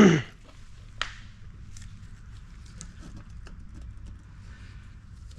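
A man coughs right at the start. A sharp click follows about a second in, then faint light ticks and taps of hands working on engine parts over a low steady hum.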